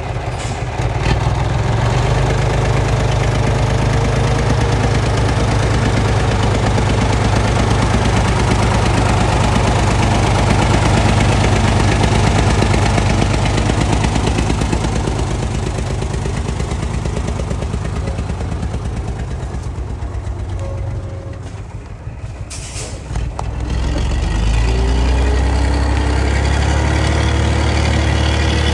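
Heavy log truck's engine running loud and steady as it pulls up onto a road embankment. About 21 seconds in it eases off, a short sharp burst of noise follows, and then the engine picks up again with its pitch rising.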